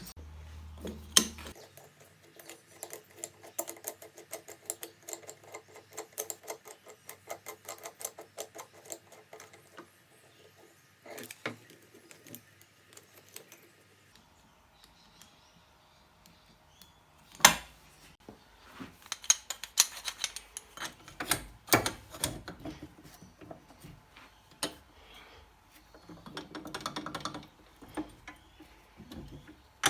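Clicking and clinking of metal being handled, with a run of quick, fairly regular clicks and several sharper knocks later on.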